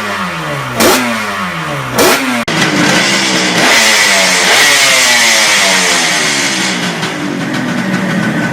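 Two-stroke motorcycle engine being revved: sharp throttle blips about once a second, each falling away, then a longer stretch held at high revs with the pitch rising and falling.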